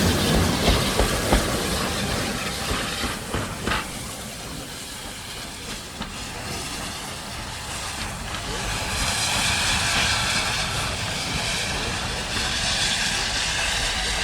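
Steam train running, wheels knocking over the rail joints and the rumble dying away over the first few seconds, then from about nine seconds in a steady hiss of steam from the locomotive 30506, a Urie S15 4-6-0.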